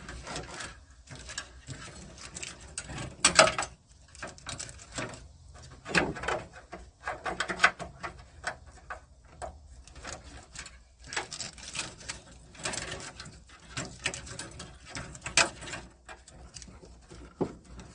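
Irregular clicks, knocks and scrapes of hand work inside a car door, as wiring and clips are pried and pulled free, with a few sharper clacks.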